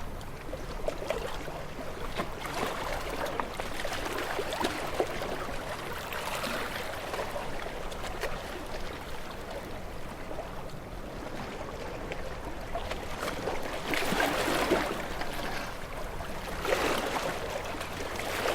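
Sea waves washing in and draining back, swelling and easing every few seconds, with the largest surges about two-thirds of the way in and near the end.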